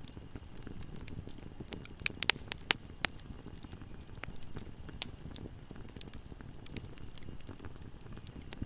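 Bonfire crackling: a low, steady rush of burning with sharp pops scattered throughout, and a quick cluster of louder pops about two to three seconds in.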